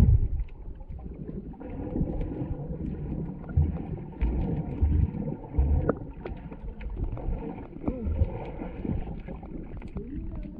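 A boat under way: steady noise of the hull and water, with wind buffeting the microphone in short low thumps.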